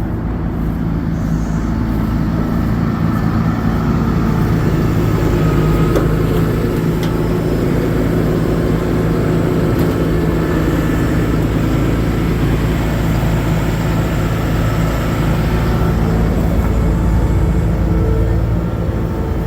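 Cummins 6.7-litre diesel engine of a Ford F750 truck idling steadily.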